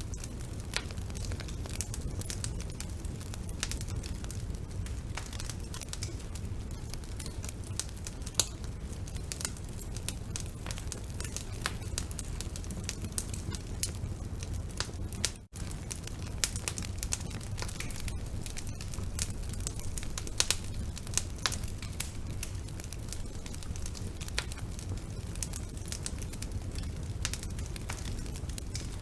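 Wood burning in a fireplace: a steady run of crackles and sharp pops over a low rumble of flames. The sound cuts out for an instant about halfway through.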